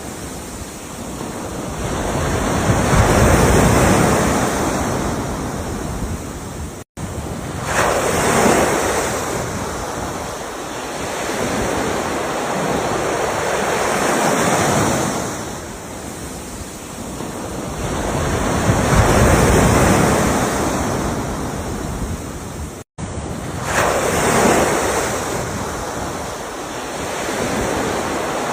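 Ocean waves breaking and washing in, the roar swelling and fading about every five seconds. Twice the sound cuts out for an instant.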